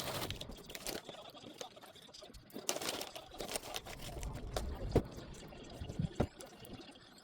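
Kitchen handling sounds: liquid pouring or sloshing with scattered small knocks and clicks, one sharper knock about five seconds in.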